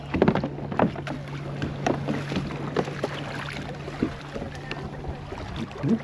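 Tandem kayak being paddled: paddle strokes splashing in the water, with irregular knocks and clunks against the kayak hull.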